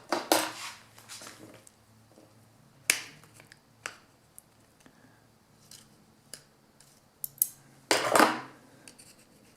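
Scattered clicks and light knocks of a two-stroke engine's recoil starter pulley and pull cord being handled, with a short scraping rush about eight seconds in as the cord is worked.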